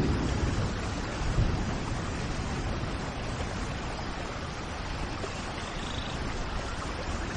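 Steady rain, an even hiss, with low rumbles right at the start and again about a second and a half in. A faint bird call comes through about six seconds in.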